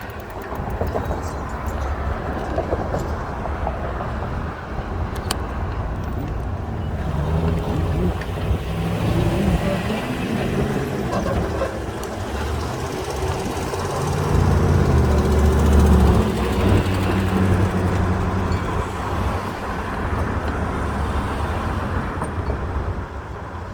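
Motor traffic passing on the road: a vehicle's engine rises in level from about a third of the way in, is loudest about two-thirds of the way through, then fades, over a steady low rumble.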